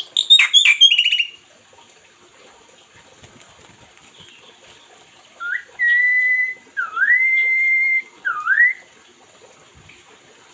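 Pet bird chirping sharply several times at the start, then, after a short lull, a run of clear whistled notes: a short rising note, a long held whistle, a note that dips and climbs into another long held whistle, and a last dip-and-rise.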